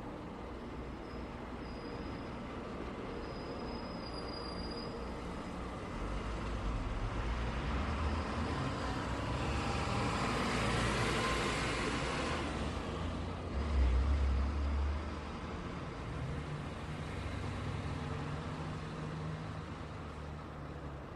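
Road traffic noise: a vehicle passes by, the tyre and engine noise swelling and fading about halfway through, followed by a short, louder low rumble from a heavy vehicle.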